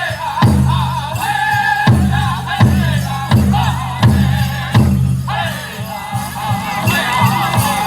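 Powwow drum group singing a chicken dance song: a big drum struck in a steady beat, about one stroke every 0.7 seconds, under several voices singing together in a high, wavering line. The drumming goes softer for a moment about six seconds in.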